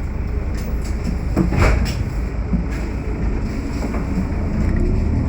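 Steady low rumble of a running vehicle, with a few knocks and a short rattling clatter about one and a half to two seconds in.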